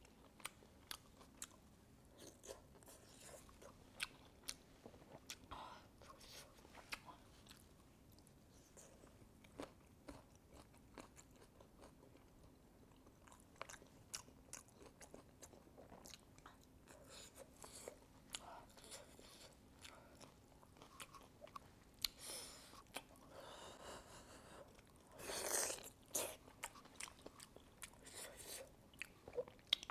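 A person eating braised pork trotters close to the microphone: chewing and biting with frequent sharp wet mouth clicks. There are two louder, fuller stretches of eating about three-quarters of the way through.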